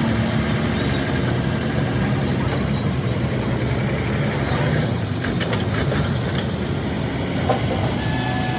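An engine idling steadily, with a few light clicks about two-thirds of the way through.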